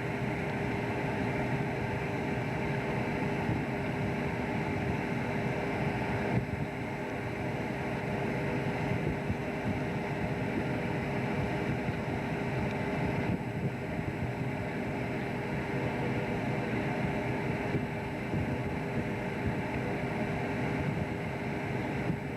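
Fishing boat's engine running steadily, a constant low rumble with a steady hum on top, with small shifts in tone about six and thirteen seconds in.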